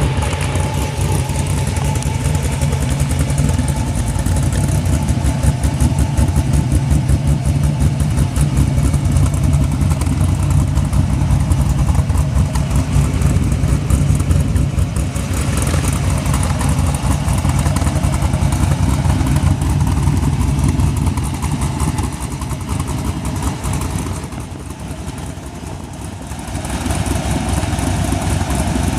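Cammed LS1 V8 of a 2004 Pontiac GTO with a MagnaFlow 3-inch cat-back exhaust, running at a steady idle. It goes quieter for a few seconds about three quarters of the way through, then comes back up to its earlier level.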